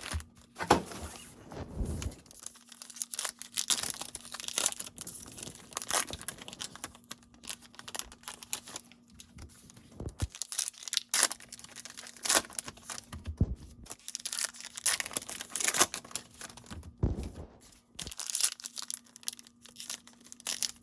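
Trading-card pack wrappers crinkling and tearing open, with cards shuffled and handled in irregular bursts.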